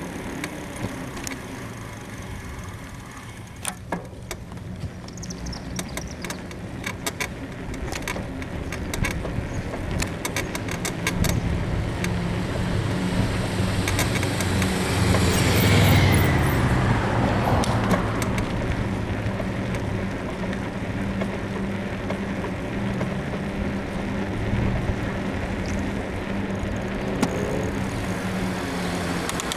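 Rear-suspension frame bushing of a full-suspension bicycle creaking and clicking in quick irregular ticks as it is ridden, a sign of a worn bushing, the rider thinks. Road traffic runs alongside: about halfway a motor vehicle passes close by, its pitch falling, and a steady low engine hum carries on afterwards.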